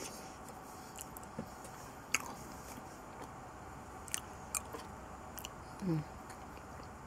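Close-up mouth sounds of a person chewing soft banana with peanut butter spread: scattered wet clicks and smacks of the lips and tongue. A short voiced hum comes near the end.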